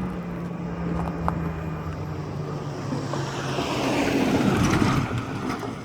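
A motor vehicle passes close by on the road, its noise swelling to a peak about four and a half seconds in and then falling away quickly.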